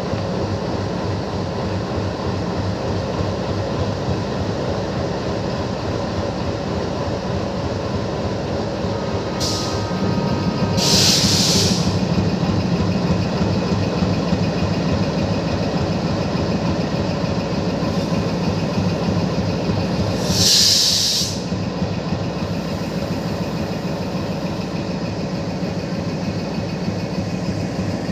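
Diesel locomotive engine running steadily, its note getting louder about ten seconds in. Two short hisses of released air cut through, about eleven and twenty-one seconds in.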